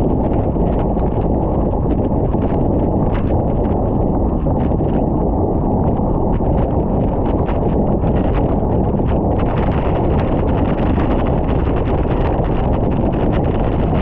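Wind rushing over the microphone as a bicycle descends a mountain road fast, a steady low roar with many irregular sharp clicks and rattles over it.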